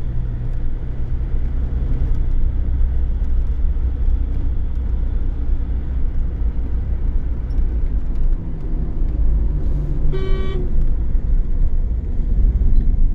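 Car on the move, with a steady low rumble of engine and road noise. A short vehicle horn honk sounds once about ten seconds in.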